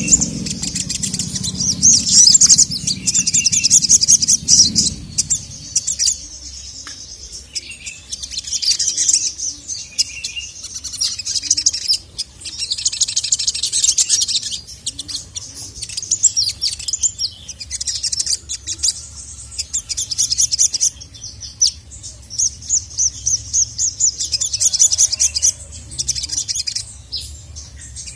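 A sogok ontong (sogon) sunbird singing loudly in repeated high, rapid chirping trills, each phrase lasting a second or two with short gaps between. A low rumble runs under the first few seconds.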